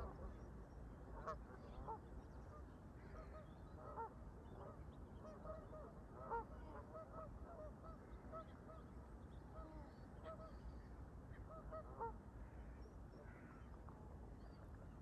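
Canada geese honking, faint and repeated, in clusters of short calls with a quicker run of honks near the middle, over a steady low wind rumble.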